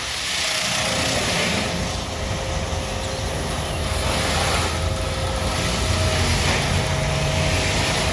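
Automatic car wash running: a steady machine hum and low rumble, with a hissing spray that swells and fades every second or so.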